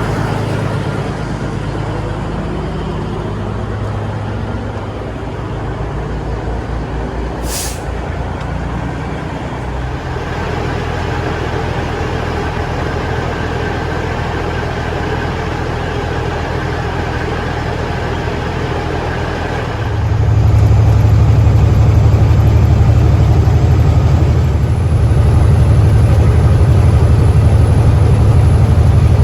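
Semi truck's diesel engine running, with a short sharp hiss of air about eight seconds in, typical of an air brake release. At about twenty seconds the low engine rumble gets markedly louder and stays up.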